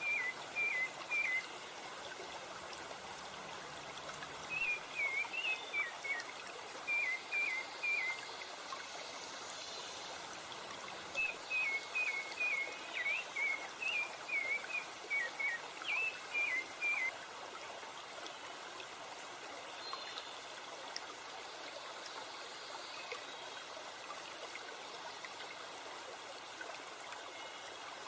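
Steady rushing of a stream and waterfall, with a bird singing short, quick chirping phrases in three bouts during the first two-thirds.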